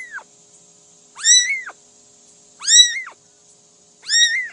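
A cat meowing over and over. Each meow is drawn out, rising and then falling in pitch, and comes about every second and a half; three full meows follow the end of a previous one.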